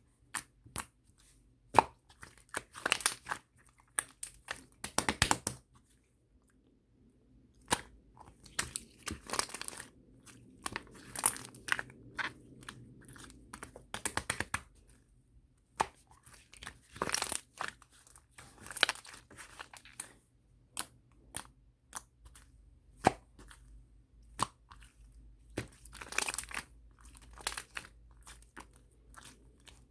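Close-up crunching: irregular clusters of sharp crackles with short quiet gaps between them.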